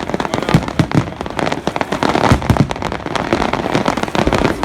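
Fireworks crackling: a dense, rapid run of sharp small bangs and cracks, many to the second, without pause.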